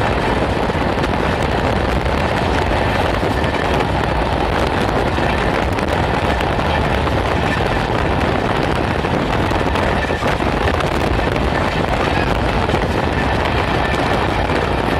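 Steady running noise of a moving train heard at an open window, with wind on the microphone.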